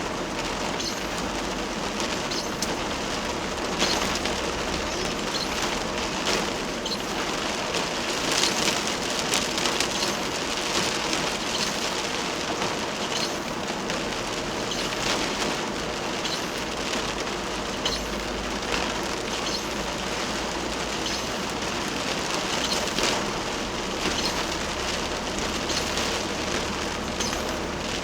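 Heavy rain falling in a steady downpour: an even hiss studded with countless individual drop hits, swelling slightly now and then.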